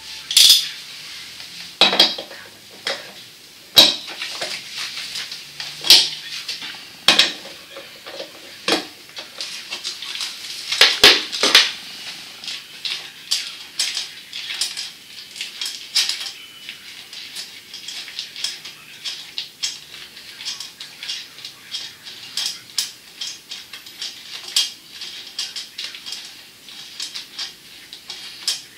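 Irregular sharp clinks and clatters of hard objects. A few loud knocks fall in roughly the first twelve seconds, then come quicker, lighter clicks.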